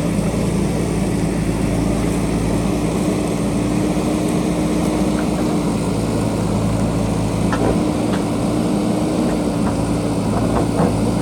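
JCB backhoe loader's diesel engine running at a steady pitch, with a few faint clicks in the second half.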